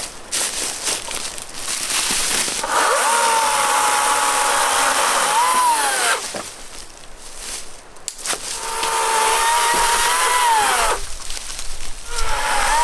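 A power saw cutting wood in three runs of a few seconds each. The motor's pitch holds steady under load and rises near the end of each run as the blade comes free of the cut.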